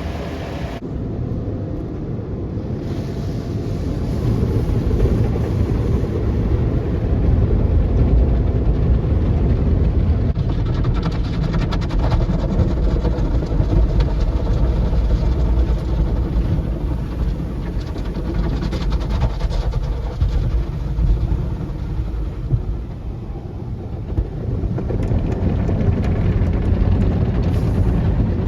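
Steady low mechanical rumble with a hiss above it, growing louder about four seconds in.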